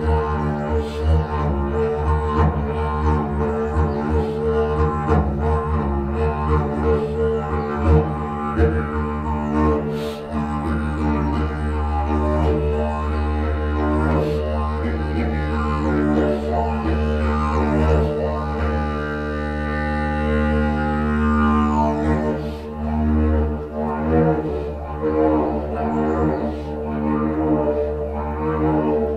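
Didgeridoo playing a continuous low drone, sustained by circular breathing, inside a hand-carved tunnel. Rhythmic pulses run through the first part, and shifting overtones sweep up and down above the drone in the middle.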